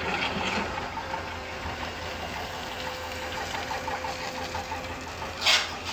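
Hyundai 220 excavator's diesel engine running steadily, with a thin steady whine over it for most of the time. A short rush of noise comes near the end.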